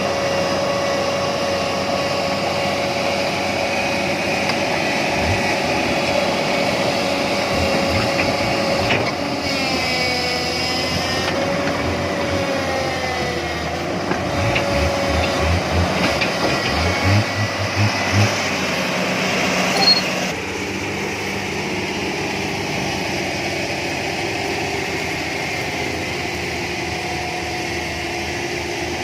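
Truck engine running steadily, with a series of low knocks partway through and a slightly quieter, even run from about two-thirds of the way in.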